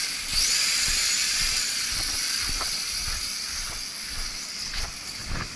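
U807 quadcopter's motors whining high, rising in pitch about half a second in as the throttle goes up, then slowly getting quieter as it flies off. Wind rumbles and buffets on the microphone underneath.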